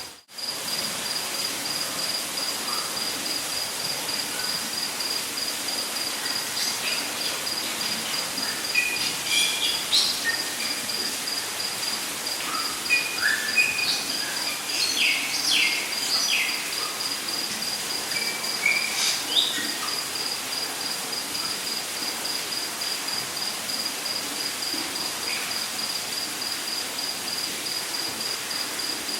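Rainforest ambience: an insect trills steadily with a fast, even pulse over a constant hiss. Birds call in short chirps and whistles through the middle stretch. The sound drops out briefly at the very start.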